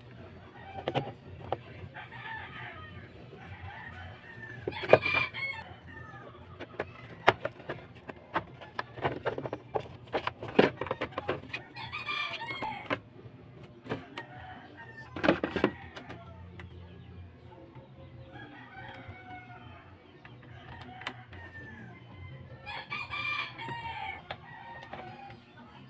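A rooster crowing three times, about five, twelve and twenty-three seconds in, with clucking between, over repeated sharp clicks and knocks.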